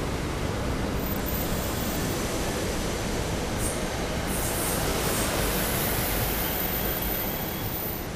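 SEPTA electric multiple-unit commuter train rolling past, a steady rumble of wheels on rail, with a thin high squeal joining about halfway through.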